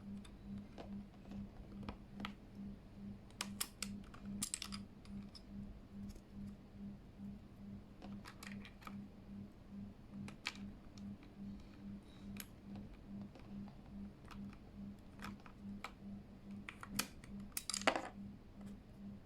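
Irregular sharp plastic clicks and clacks, a keyboard and its keycaps being handled, with a quick flurry of louder clicks near the end. A low hum pulsing two or three times a second runs underneath.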